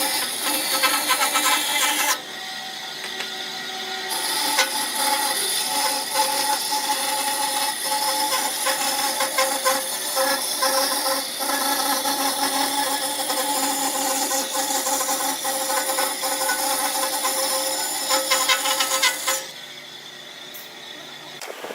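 Wood lathe motor running with a steady whine while a tool cuts the spinning wood with a hiss. The hiss drops out about two seconds in, returns a couple of seconds later, and the whole sound falls away sharply near the end.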